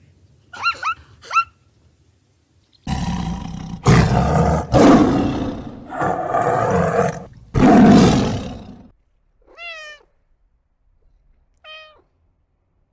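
A large animal roaring in about five long, rough calls, with short, high, meow-like calls before and after.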